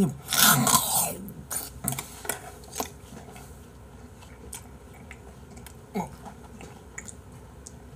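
Close-up eating sounds: a mouthful of raw beef yukhoe and pear is taken in with a short wet noise, then chewed with small clicks and squelches that thin out after about three seconds.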